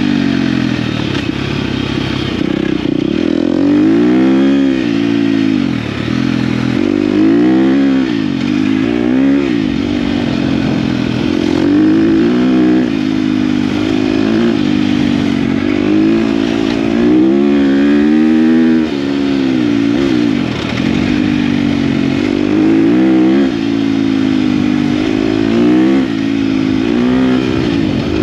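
KTM dirt bike engine being ridden hard, revs rising and falling every second or two as the throttle opens and closes and it shifts gears, with some mechanical clatter.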